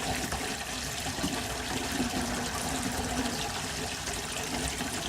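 Water running steadily from a kitchen faucet into the sink, a constant rushing splash.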